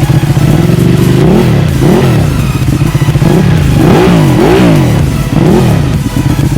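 Ducati 1299 Panigale's L-twin engine, fitted with a full titanium Akrapovič exhaust, revved in about six quick blips over a steady idle.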